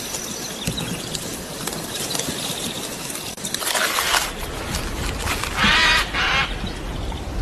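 Outdoor woodland ambience with a low rumble, and a harsh animal call, the loudest sound, about six seconds in.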